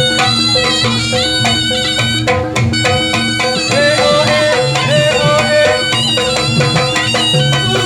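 Javanese barongan accompaniment music: a shrill reed wind instrument plays a winding melody over steady drumming and held metallic gamelan notes.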